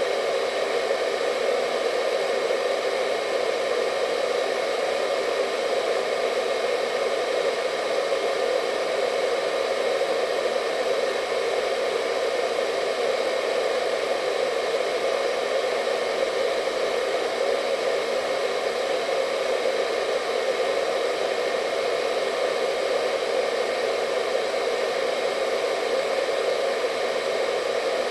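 Hair dryer running steadily: an even, unchanging rush of air, centred low-mid, with a faint high whine from the motor.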